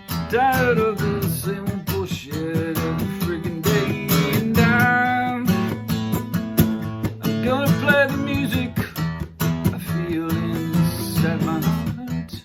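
Acoustic guitar strummed and picked, with a voice singing over it in several phrases.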